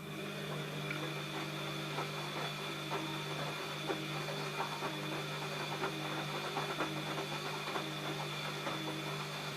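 ELIN A 100 E washing machine's motor starting and running with a steady hum, the drum turning with scattered light knocks and clicks.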